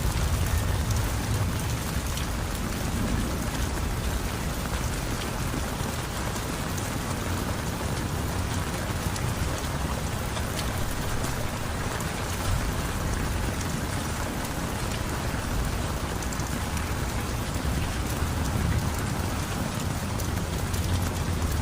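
Heavy rain falling steadily on surfaces, an even wash of noise. Low rumbling builds near the end.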